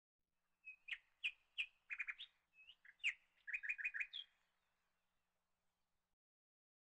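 A small bird chirping: a quick run of short, high chirps and trills that starts just under a second in and stops about four seconds in.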